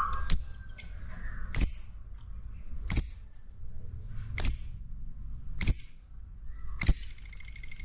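A small bird calling: six sharp, high chirps, evenly spaced about a second and a quarter apart.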